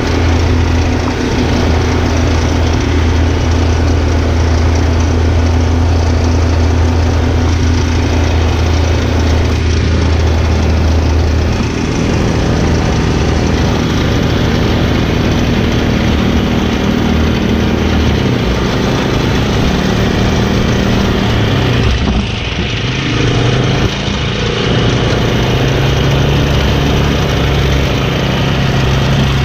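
Pull-behind brush mower running in tall grass with its tow vehicle, a steady engine drone throughout. The engine note shifts lower about twelve seconds in and wavers again with a brief dip a little past twenty seconds.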